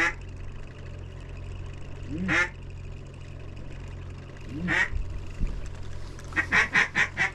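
Mallard quacking: three single drawn-out quacks a little over two seconds apart, then a quick run of about seven quacks near the end, over a steady low hum.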